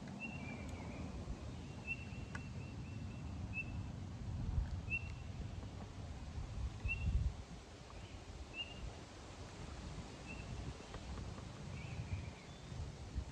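A bird chirping repeatedly: short, high single chirps about once a second, over a low rumbling background noise with a faint click or two.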